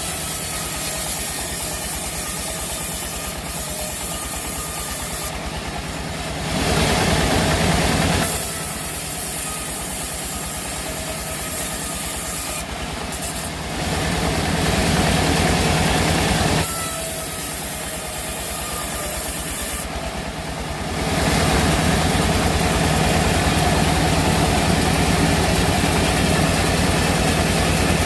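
Sawmill machinery running, an engine's steady low beat underneath, with several louder stretches of hissing sawing noise as the saw cuts through the log.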